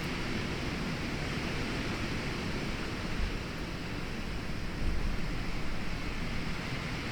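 Heavy rain and wind in a storm, a steady hiss with gusts buffeting the microphones and a small swell about five seconds in.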